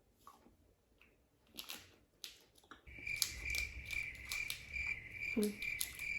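A high, steady trill like a cricket chirping starts about halfway through and keeps going, over scattered small clicks and two short low sounds near the end.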